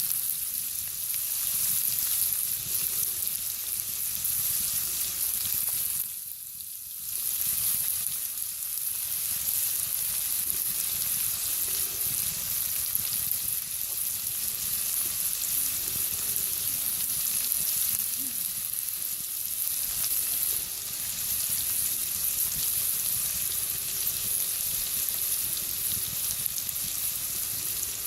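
Onions and garlic sizzling in a frying pan: a steady frying hiss that dips briefly about six seconds in.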